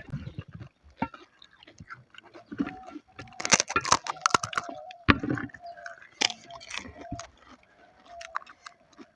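Crisp panipuri shells crunching as they are bitten and chewed, in a run of irregular sharp crunches that is densest in the middle, over a faint background tone.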